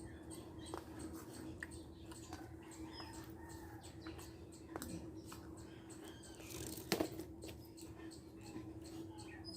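Faint mouth and eating sounds from someone eating rice with dried fish: small wet clicks, smacks and squeaks, with a sharper click about seven seconds in, over a steady low hum.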